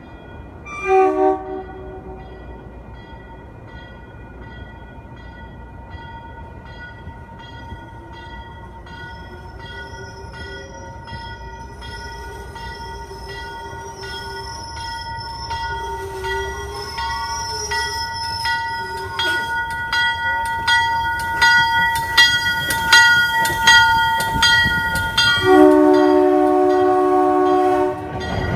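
MBTA commuter rail train approaching and passing the platform. A short horn blast sounds about a second in. A steady high ringing tone and rumble, with regular clicking, build as the train nears. A long horn blast of about two and a half seconds sounds near the end as the coaches reach the platform.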